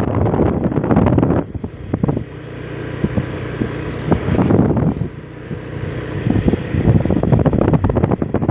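Wind buffeting the microphone in loud, irregular gusts, with a steady engine hum showing through in a calmer stretch from about one and a half to four and a half seconds in.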